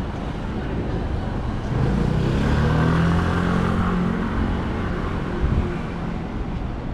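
A motor vehicle passing on a city street: its engine swells about two seconds in and fades away about two seconds later, over a steady rumble of traffic.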